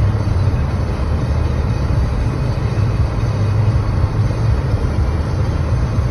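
Strong storm wind buffeting the microphone: a steady, loud low rumble with a hiss above it and no distinct events.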